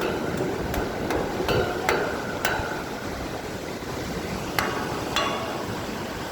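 Steady rush of a waterfall, with a series of sharp knocks, about six in the first two and a half seconds and two more near the end, some ringing briefly.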